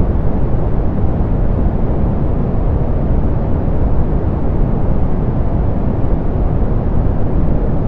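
Steady soft pink noise: an even hiss weighted toward the low end with the highs rolled off, unchanging throughout.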